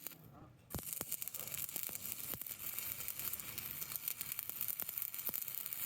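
A welding arc crackling: a steady hiss full of sharp pops. It breaks off briefly near the start and strikes up again.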